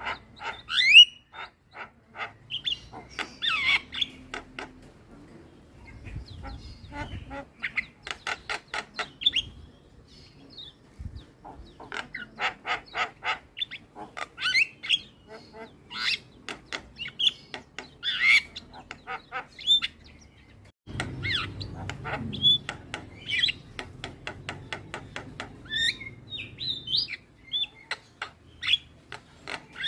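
Javan myna (jalak kebo) chattering and singing: a busy run of harsh squawks, short whistled notes and fast rattling clicks, broken by brief pauses.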